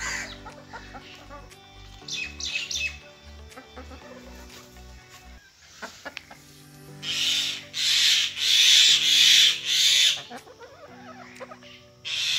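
Aseel chickens calling over background music, with short chirps early on and a run of four loud, harsh squawks about seven to ten seconds in.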